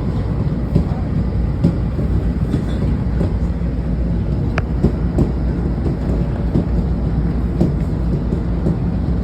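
Washington Metro railcar running along the track, heard from inside the car: a steady low rumble with irregular clicks and knocks from the wheels over the rail.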